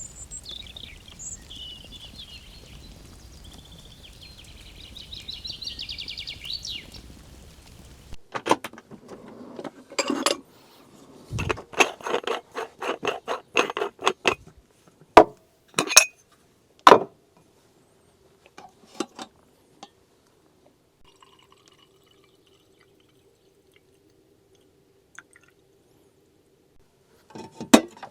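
Birds singing over a low outdoor ambience for about eight seconds. Then an abrupt change to dishes and glass clinking and knocking, with liquid being poured, and a faint steady hum after the clatter dies down.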